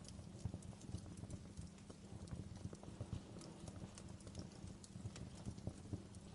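Wood fire burning in a fireplace, crackling with many irregular sharp pops and snaps over a low, steady rumble of the flames.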